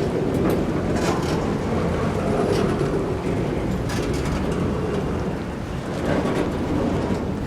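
Freight train rolling slowly through floodwater over the track: a steady low rumble, with a few sharp clanks or splashes now and then.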